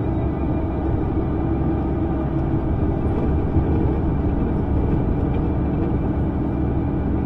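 Steady low rumble and hum of a moving vehicle, unchanging throughout.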